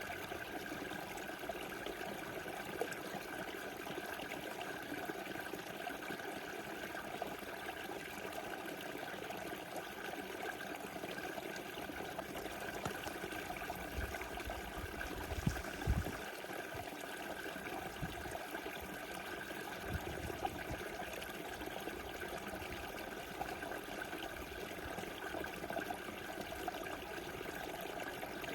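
Small river rushing steadily, an even water noise. A few brief low thumps come about halfway through.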